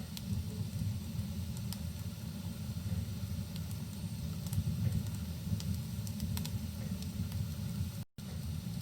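Wood fire crackling in a fireplace, with sharp pops scattered over a steady low rumble of rain and flames. The sound cuts out for an instant near the end.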